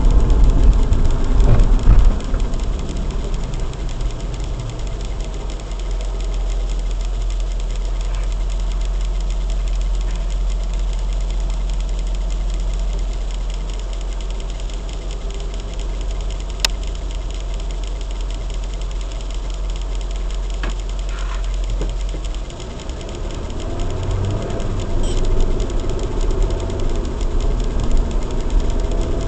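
A car's engine and road rumble heard from inside the cabin: loud at first while the car slows, then a quieter steady hum as it idles at a red light, with a single sharp click about halfway through. Near the end the rumble rises again as the car pulls away.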